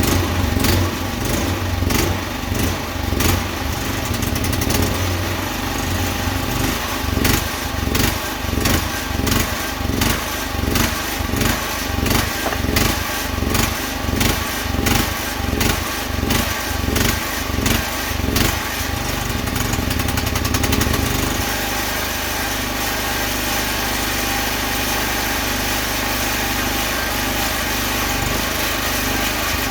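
A motor-driven machine running loudly, pulsing in a regular rhythm about one and a half times a second, then settling into a steady drone about twenty seconds in.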